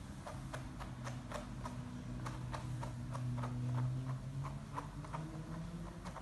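A cat playing with a ball, making a steady string of light taps and clicks about three a second, over a low steady hum that grows louder in the middle.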